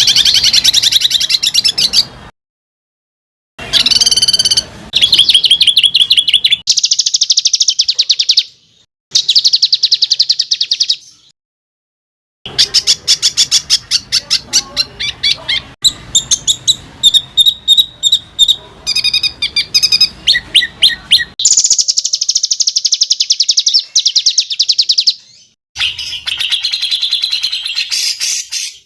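Small songbirds singing fast, harsh rolling trills of rapidly repeated notes. The recording is cut together as short clips with abrupt silent gaps between them.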